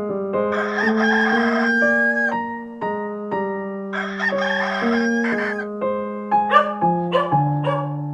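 A rooster crowing twice, each crow about a second and a half long, over gentle piano-like background music. Near the end a run of short, sharp animal calls begins.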